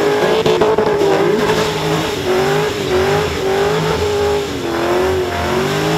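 Holden Commodore ute's engine held at high revs during a burnout, its pitch wavering up and down as the rear tyres spin on the pad.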